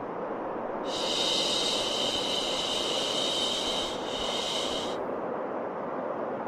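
Steady white noise for soothing a baby, with a long 'shhh' shushing sound over it starting about a second in and stopping about four seconds later, broken briefly near the end.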